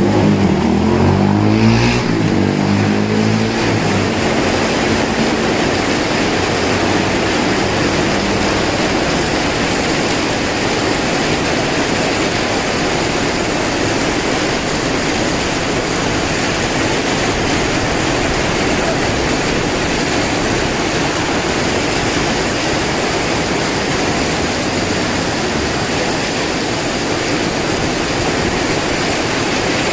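Strong wind and heavy rain making a dense, steady rushing noise. A low droning tone fades away over the first few seconds.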